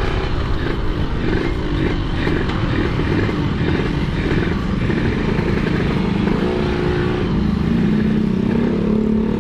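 Yamaha RX-King two-stroke single-cylinder engine running while the motorcycle is ridden. Its pitch wavers with the throttle at first, then holds steadier and a little higher from about six seconds in.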